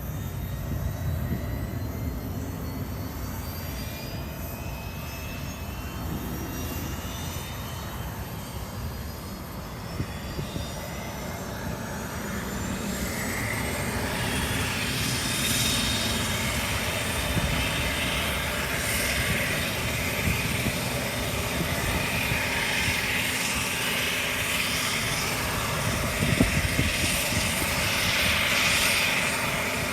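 Engine start of a De Havilland Canada Dash 8 Q400's Pratt & Whitney PW150A turboprop: a whine rises steadily in pitch over about fifteen seconds as the turbine spools up, then the engine settles into steady running, louder, with a rushing propeller noise.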